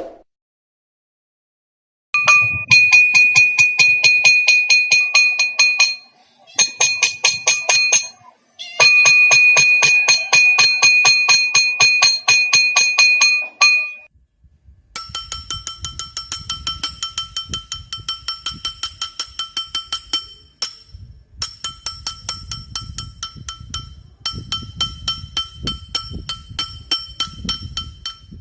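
A bakso vendor's porcelain bowl struck rapidly with a spoon, the street-seller's 'ting-ting' call, in long runs of several ringing strikes a second with short pauses. About halfway through, after a brief gap, the ringing changes to a lower pitch, as if another bowl or another spot on the rim is being struck.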